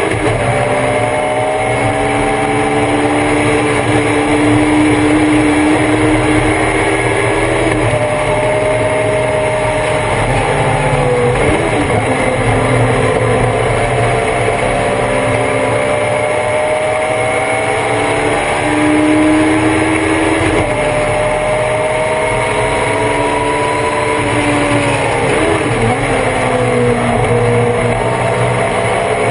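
Race car engine heard on board, pulling hard with revs climbing steadily through the gears. It drops sharply at upshifts about 8 and 20 seconds in, and the revs dip and blip around 11 and 25 seconds in as it downshifts for corners. Steady wind and road noise lies underneath.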